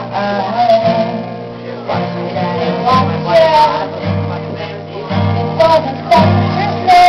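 Live song: a voice singing over strummed acoustic guitar chords. Just before the end the sound jumps suddenly louder and brighter.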